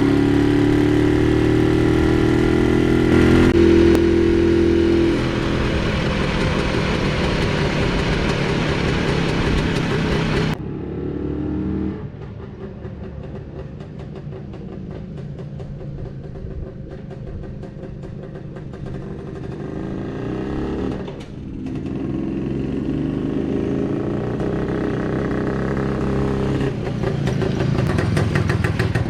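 IZH 56 motorcycle's 350cc two-stroke single-cylinder engine running and revving, its pitch rising over the first few seconds. The engine sound drops abruptly much quieter about ten seconds in, then builds louder again over the last several seconds.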